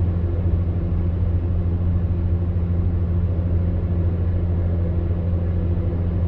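Electric fan heater running steadily: a deep, constant hum over a soft, even rush of air.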